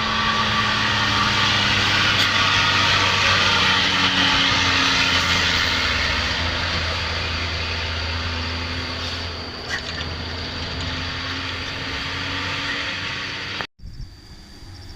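Overloaded dump truck creeping down a steep descent, its engine running low under a loud, harsh brake noise. The sound eases after about nine seconds and cuts off abruptly near the end.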